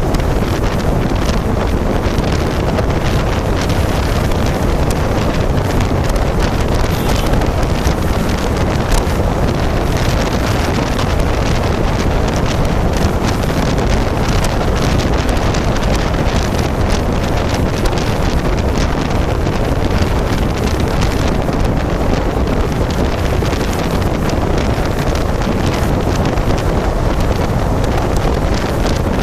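Steady wind rush on the microphone of a moving motorcycle, with road noise underneath.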